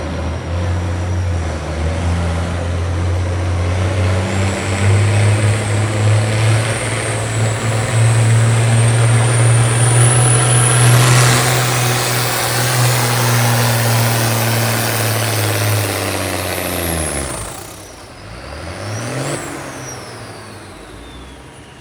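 Farm tractor's engine running hard at steady high revs under full load while pulling a weight-transfer sled, then throttling back about seventeen seconds in, its pitch falling as it winds down.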